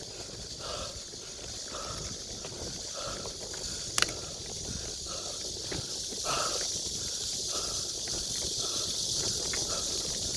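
Bicycle riding along a forest trail, with a steady high-pitched hiss throughout and soft regular pulses about once a second. One sharp click comes about four seconds in, and the sound grows slightly louder after about six seconds.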